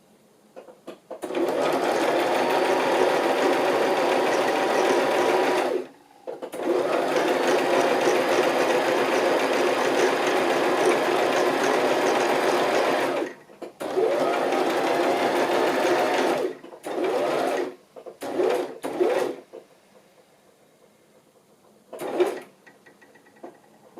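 Electric sewing machine stitching a zigzag seam through fabric: three long steady runs of several seconds with brief stops between them, then a few short bursts toward the end.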